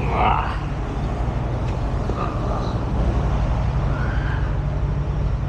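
Heavy truck's diesel engine idling steadily with an even low pulse, and a short higher-pitched sound right at the start.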